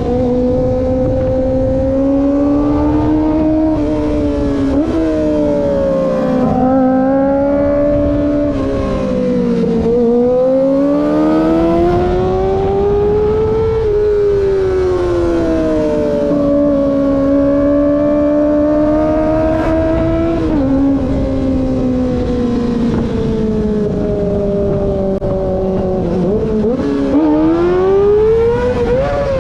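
Kawasaki ZX-25R's 250 cc inline-four engine running at high revs under way, its high-pitched note climbing and dropping back several times with the throttle, with a sharp climb and drop near the end. Low wind rumble runs underneath.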